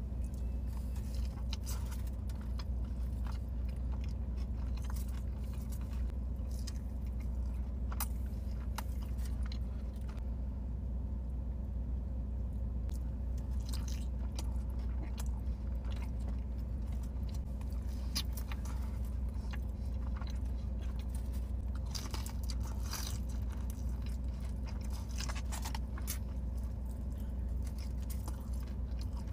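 Close-up eating sounds of a sauced bone-in chicken wing dipped in a creamy dip: wet biting and chewing with scattered sharp clicks and crunches. A steady low hum from the car runs underneath.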